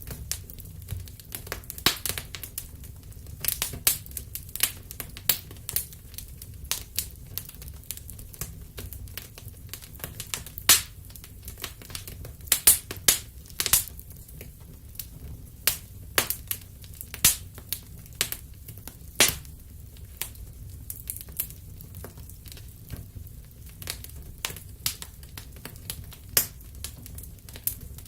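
Wood fire crackling in a fireplace: irregular sharp crackles and occasional louder pops over a steady low rumble of the flames.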